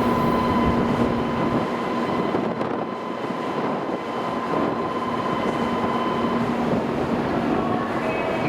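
A Sanyo Shinkansen train at the platform: a steady rumbling noise with a low hum and a higher, held whine.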